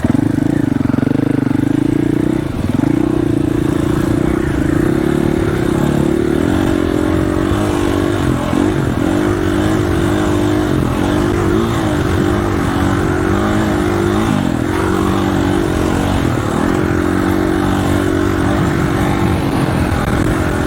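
Dirt bike engine running steadily while being ridden, its revs dipping and picking up again several times.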